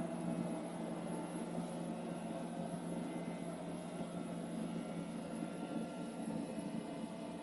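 iClebo Omega robot vacuum cleaner running: a steady whir from its motor with a faint whine over it.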